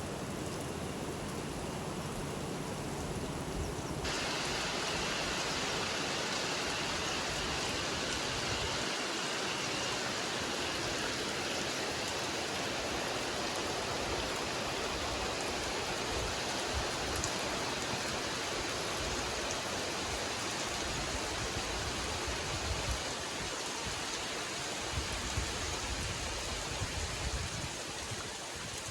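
Steady rain falling, an even splashing hiss that turns brighter and louder about four seconds in, with uneven low rumbling underneath.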